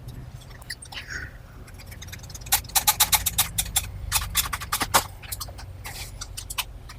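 Quick, irregular clicking and rattling of the opener's parts being handled and fitted together by hand, clustered in the middle few seconds over a low steady hum.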